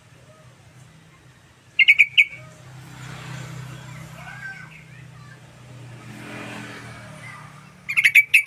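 Yellow-vented bulbul (trucukan) singing two short, rapid, bubbling song phrases, about two seconds in and again near the end. A low steady hum runs underneath and swells a little midway.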